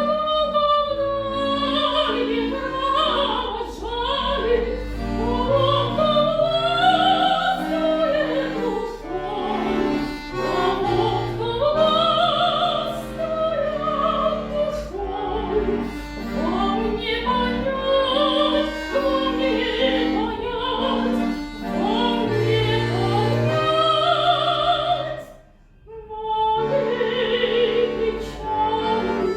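A classically trained high voice sings a Russian romance with wide vibrato over sustained instrumental chords, pausing briefly about 26 seconds in before going on.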